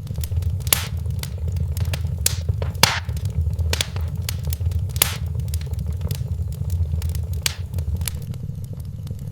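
Wood fire crackling in a fireplace: scattered sharp pops and snaps, a handful of them louder, over a steady low rumble.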